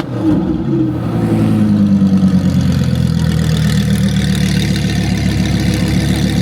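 Performance car exhaust: one quick rev just after the start, then the engine pitch eases down and it settles into a steady, pulsing low-rev run.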